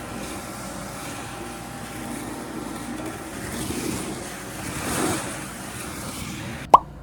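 Water running steadily from a tap, then cut off abruptly near the end, followed by a short sharp squeak.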